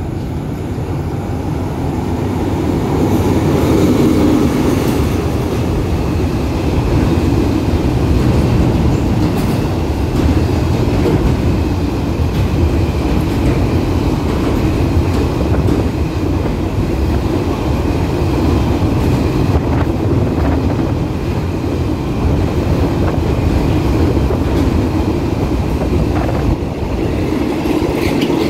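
A freight train running through a station close by without stopping. It is loudest about three to five seconds in as the Alstom diesel-electric locomotive goes by. A long string of container flatcars then rolls past, the wheels clicking steadily over the rail joints.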